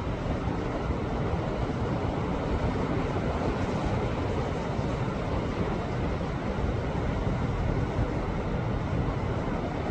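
Sea waves washing against a rocky shore: a continuous, even rush of surf, with no single break standing out.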